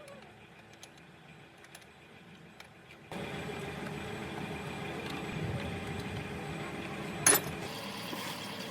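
Restored Shimizu electric water pump switched on about three seconds in and running with a steady hum. A single sharp click comes about a second before the end.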